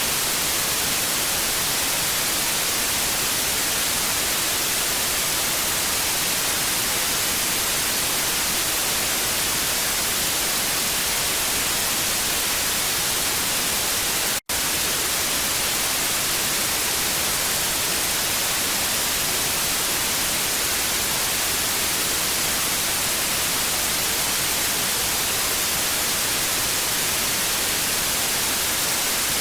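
Steady hiss of TV static, brightest in the upper range, cutting out for an instant about halfway through.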